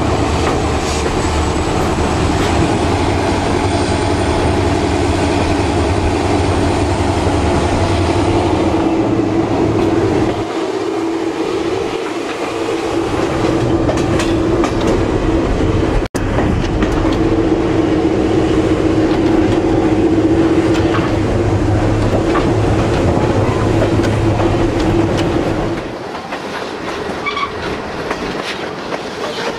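Chihuahua al Pacífico passenger train running along the track, a steady loud rumble of wheels on the rails that cuts out for an instant about sixteen seconds in.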